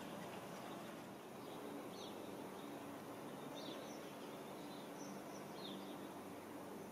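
Faint outdoor background noise with a low steady hum, and a few short, high bird chirps scattered through it.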